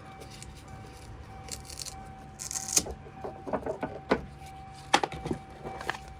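A string of clunks, clicks and rattles from handling the Land Cruiser Prado's rear door and fittings, the sharpest knock about five seconds in, with a short rustle just before three seconds. A faint steady tone runs underneath.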